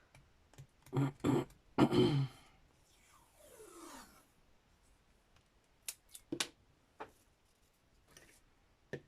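Washi tape and paper being handled at a craft desk: soft rubbing, scraping and a few short taps and clicks. A brief low vocal murmur comes about one to two seconds in.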